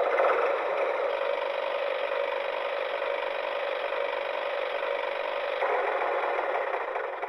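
Tractor engine start sound effect played with an auditorium reverb effect: a steady mechanical rattle with most of its low end gone, starting to die away near the end.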